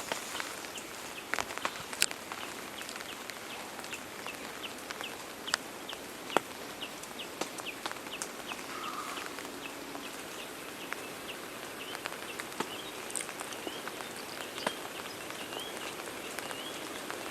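Forest ambience: a short chirping call repeated about twice a second over a steady hiss, with scattered sharp clicks and snaps.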